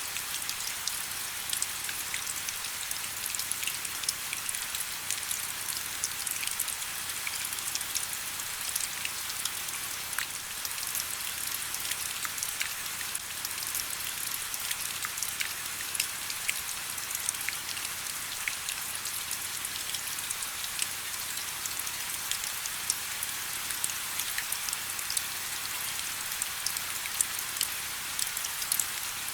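Steady rain: an even hiss with many separate drops ticking sharply through it.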